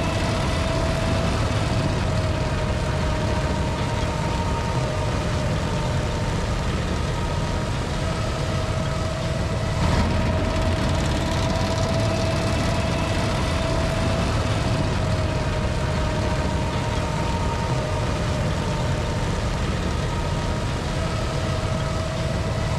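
Heavy sugar beet harvesting machinery running steadily: a deep engine rumble with a steady high whine over it.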